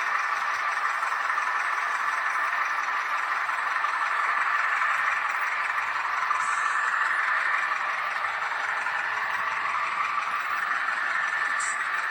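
H0-scale model of a Renfe Alco 313 diesel locomotive running along the track, a steady whirring of its small motor and wheels.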